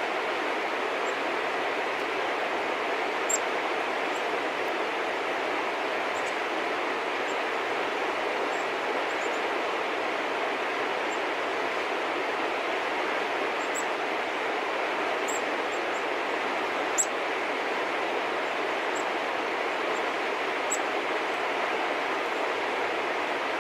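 Steady outdoor rushing noise with scattered short, high chirps of small birds feeding in the snow, two of them a little louder, about three seconds in and again about two-thirds of the way through.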